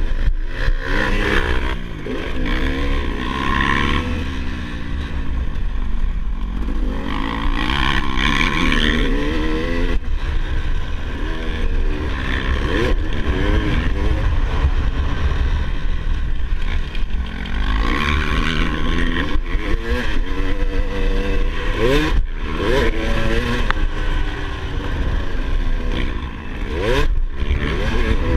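Motocross dirt bike engine revving up and falling back over and over as it is ridden, with a steady low rumble underneath.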